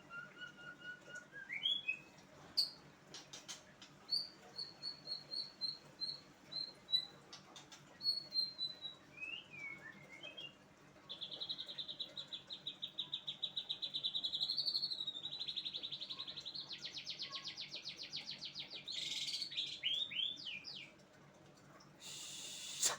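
A songbird singing a long, varied song: a run of clear whistled notes stepping down in pitch, then a fast, even trill held for about eight seconds, ending in a few quick chips. A sharp click comes just before the end.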